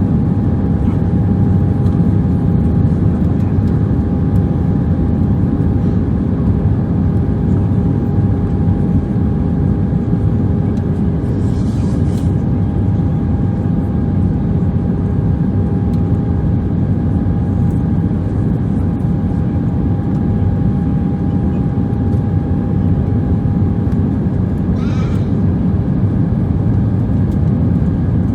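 Steady cabin noise inside a British Airways Airbus A319-131 airliner: a constant rumble from its IAE V2500 engines and the airflow, with a steady hum over it. Two faint brief sounds come through, about halfway and near the end.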